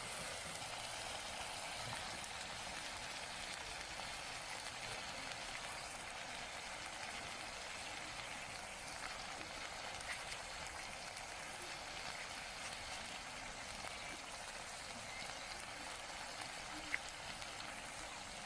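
Food frying in a pan: a steady sizzling hiss with a few faint ticks.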